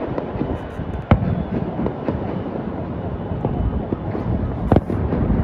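New Year fireworks going off across the city: a continuous rumble and crackle of many distant bursts, with two sharp, loud bangs, one about a second in and one near the end.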